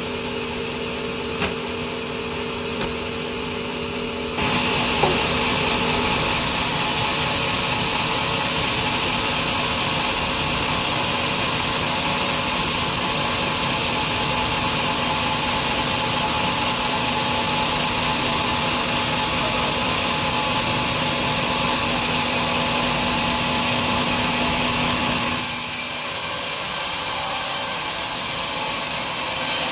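Large sawmill bandsaw running with a steady hum, then suddenly much louder about four seconds in as it cuts through a big log: a loud, even sawing noise that holds steady. Near the end there is a brief louder swell, after which the lower hum drops away.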